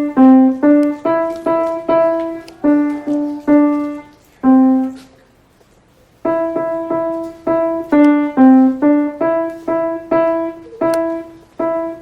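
Piano played one note at a time by a child: a simple single-line melody at about two to three notes a second, breaking off for a moment partway through and then starting the phrase again.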